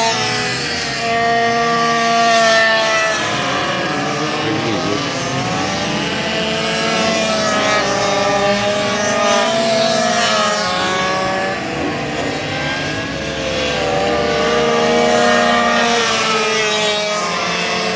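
Several small racing minibike engines running at high revs together, their pitches rising and falling as the riders accelerate and back off around the circuit.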